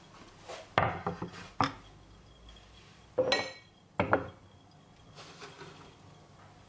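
Dishes and kitchen utensils clattering as they are handled: a few sharp knocks, a ringing clink about three seconds in, then one more knock.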